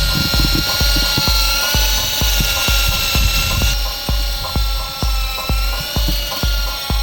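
Electric motor and rotor whine of a large three-channel RC toy helicopter in flight, its pitch wavering slowly as the throttle changes, over background music with a steady beat.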